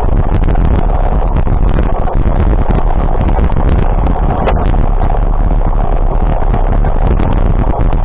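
A vehicle on the move: steady, loud engine and road noise with rumble low down.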